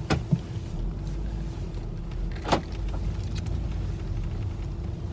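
Car cabin noise while driving: a steady low rumble with a faint steady hum, and a couple of short knocks, one just after the start and one about halfway through.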